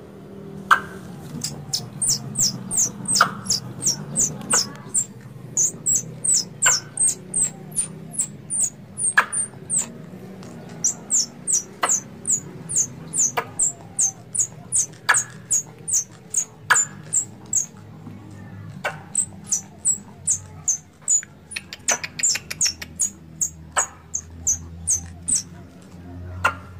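Squirrel call used to lure squirrels for hunting: a long run of short, sharp high chirps, about two or three a second, with a louder click every second or two. The chirping pauses briefly about two-thirds of the way in, then resumes with a quick rapid flurry.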